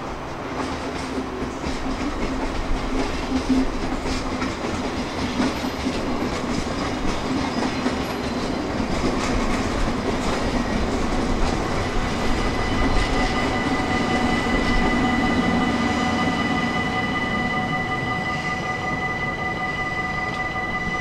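Passing trains rumble and clatter over the rails. About twelve seconds in, the level crossing's electronic warning bell starts ringing steadily and keeps going, the signal that a train is approaching the crossing.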